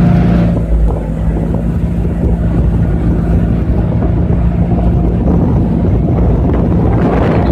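Boat engine running steadily at cruising speed, a constant drone with wind buffeting the microphone and water rushing past.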